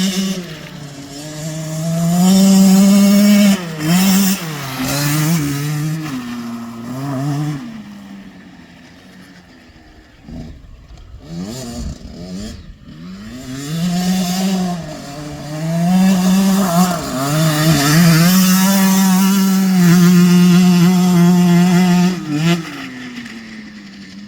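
Husqvarna TC65 65cc two-stroke dirt bike engine being ridden, revving up and down over and over. It eases off for a few seconds midway, climbs again and holds high for a few seconds, then drops away near the end.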